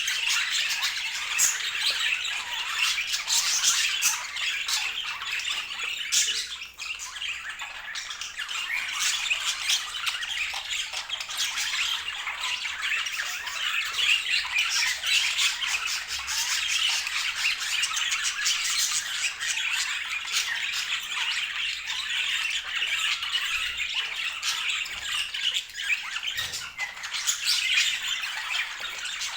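Budgerigars chattering: a dense, continuous stream of short, overlapping chirps and squawks.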